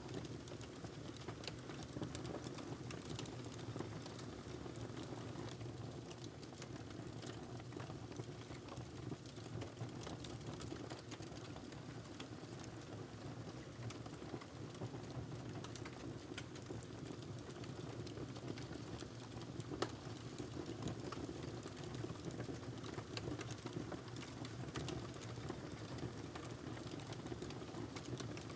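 Wood fire burning in a fireplace: a steady low rumble with scattered crackles and pops, one louder pop about two-thirds of the way through.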